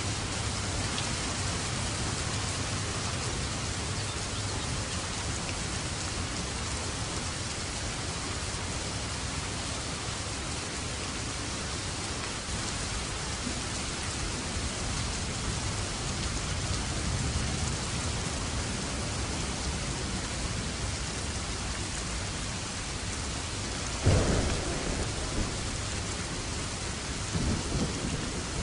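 Steady rain with low rolling thunder. Near the end, a sharp thunderclap cracks and rumbles off, followed by a smaller rumble.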